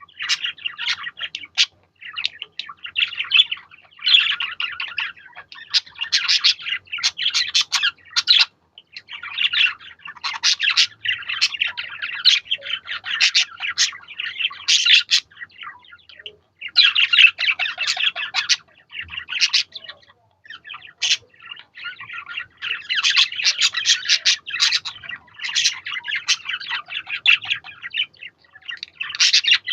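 Budgerigars chattering and warbling, a near-continuous jumble of quick chirps and squeaky twittering with a few brief pauses.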